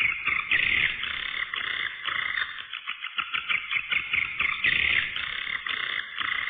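Edible-nest swiftlets' calls, a dense, continuous chattering twitter of many birds. The sound is thin and mid-pitched, cut off sharply above and below like a filtered lure recording.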